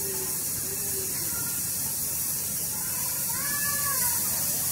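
Steady running noise of a passenger train ride: a low rumble under an even hiss, with a brief higher tone rising and falling about three seconds in.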